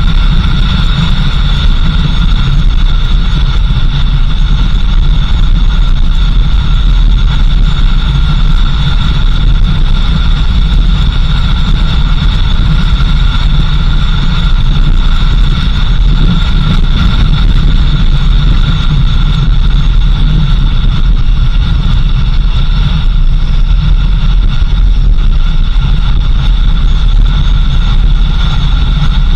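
Vehicle driving steadily on a country road: a constant low engine and road rumble, with two steady high-pitched tones above it.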